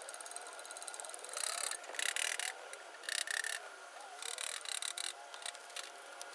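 Ratchet wrench undoing a nut on a car's front strut, with about five short bursts of rapid clicking from repeated strokes of the handle.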